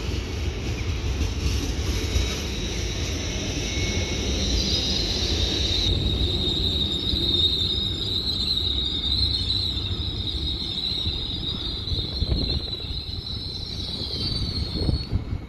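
A train running through with a steady low rumble, and a high-pitched squeal from about four seconds in until near the end.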